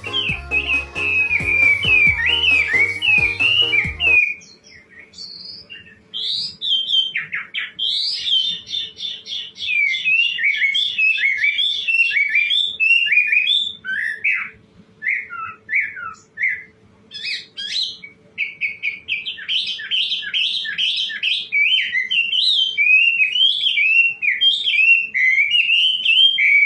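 White-rumped shama (murai batu) singing a long run of rapid, varied whistled phrases, with a couple of brief pauses around the middle. Background music with a beat plays under the song for the first four seconds, then stops abruptly.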